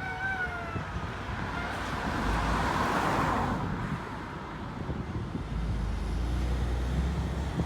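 A road vehicle passing by: its tyre and road noise swells to a peak about three seconds in, then fades, over a low rumble.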